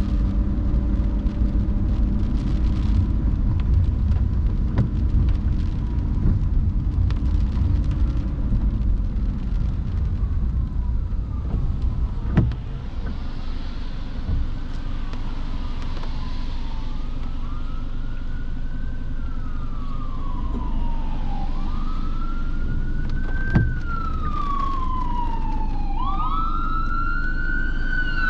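Steady low rumble of a car driving in the rain. From about ten seconds in, an emergency vehicle's siren wails, rising and falling slowly in pitch and growing louder toward the end. Two sharp knocks, about twelve and twenty-four seconds in.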